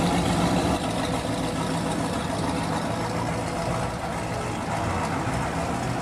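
Second-generation Pontiac Firebird's engine idling low and steady through its exhaust as the car creeps away at walking pace.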